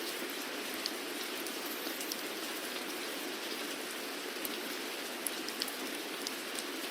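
Steady rainfall, an even hiss of rain with scattered individual drops ticking on a hard surface.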